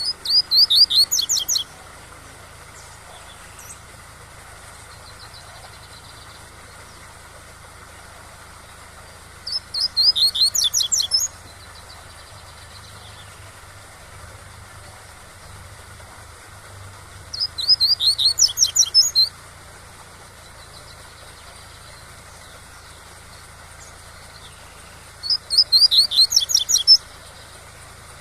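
Coleiro (double-collared seedeater) singing the tui-tui song: four short phrases of rapid, high repeated notes, about eight seconds apart. A steady rushing of waterfall water runs underneath.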